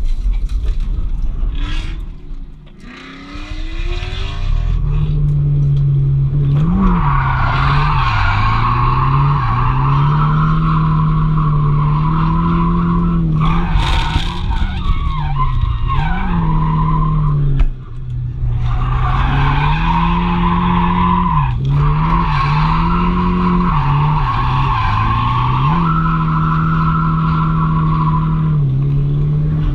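Drift car's engine revving up and down repeatedly while its tyres squeal through long slides, with a short break in the squeal just before the middle.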